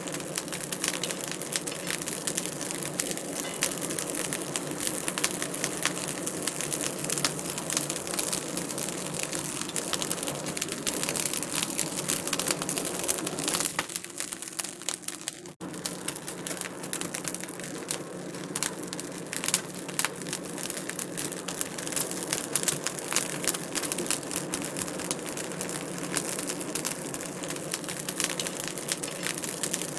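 Wood fire in a fireplace crackling, with dense, irregular snaps and pops over a steady hiss. About halfway through it briefly dips quieter, then cuts back in suddenly.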